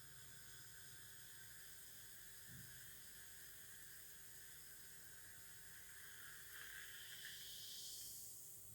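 Near silence: a steady faint hiss with a low hum, a soft thump about two and a half seconds in, and the hiss swelling slightly near the end.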